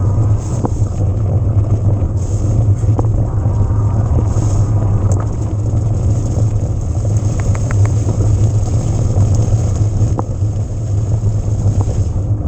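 Continuous rumble of an electric mountain bike being ridden, picked up by the rider's own camera: tyres on the trail and wind across the microphone, with a few light ticks and clicks.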